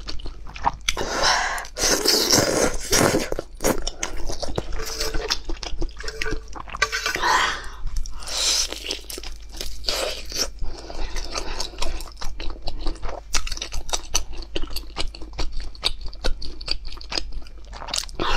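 A person eating: crisp bites and chewing of a pan-fried stuffed flatbread, with a longer stretch of eating noises about one to three seconds in, when the noodles are being eaten.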